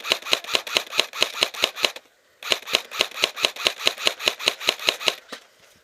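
Airsoft electric rifle firing on full auto, about nine evenly spaced shots a second, in two long strings: the first stops about two seconds in, the second starts half a second later, and a couple of single shots come near the end.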